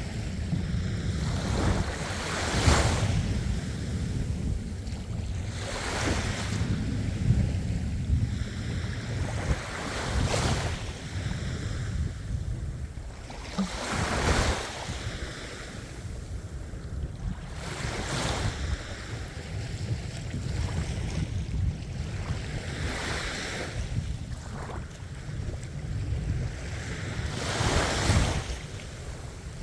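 Ocean waves breaking and washing ashore: a hissing surge of surf every few seconds over a steady low rumble.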